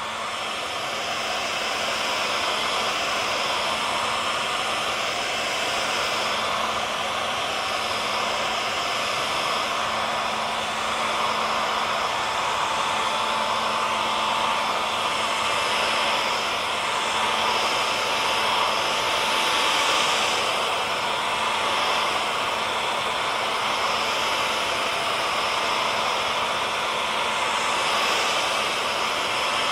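Electric hair dryer running steadily: a continuous rushing blow of air with a steady motor hum in it.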